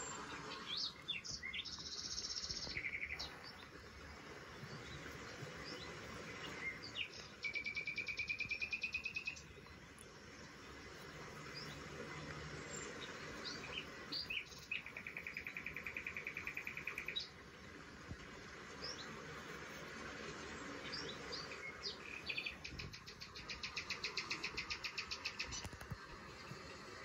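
Songbird calling: short scattered chirps, and three times a fast, even trill lasting about two seconds.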